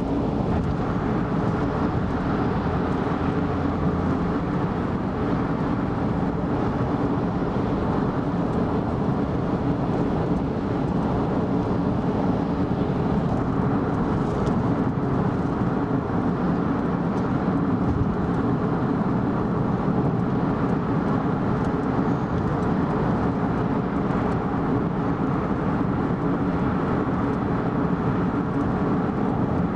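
Car driving at expressway speed: a steady, even drone of tyre and engine noise.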